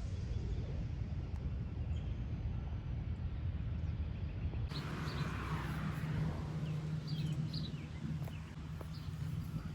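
Birds chirping in short high calls over a steady low rumble and hum; the chirps start about halfway through.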